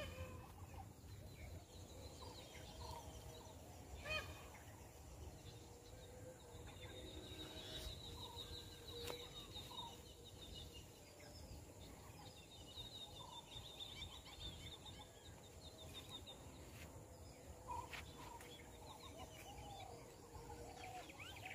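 Faint outdoor ambience with distant birds: repeated high trilling phrases and scattered short chirps over a low rumble, with a few faint clicks.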